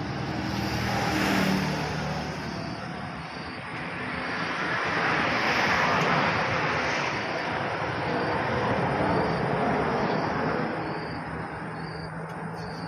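Road vehicle noise, swelling and fading twice as traffic goes by, over a low steady engine hum.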